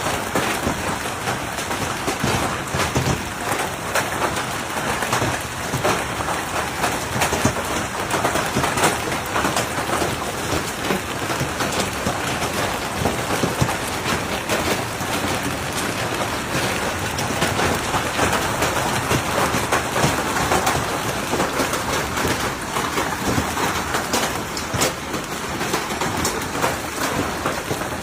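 Heavy storm rain pelting down on a surface: a dense, steady patter full of sharp individual hits.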